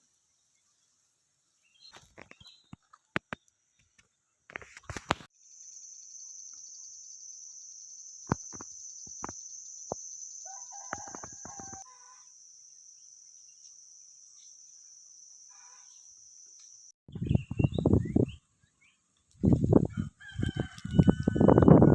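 Village ambience: a steady high-pitched insect buzz and a few faint bird chirps, then near the end loud chicken calls, a rooster crowing among clucking hens.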